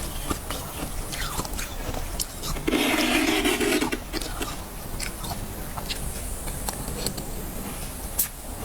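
Freezer frost being scraped and bitten, making scattered crisp crackles and crunches, with a louder, denser scraping stretch about three seconds in that lasts about a second.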